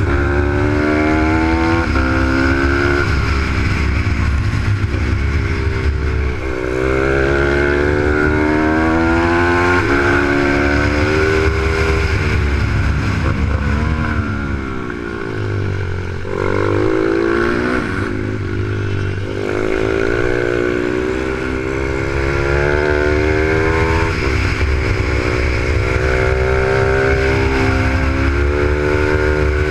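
Z155 pit bike engine at speed, its pitch climbing as it revs through the gears and dropping on the brakes, over and over, with a lower, softer stretch about halfway through.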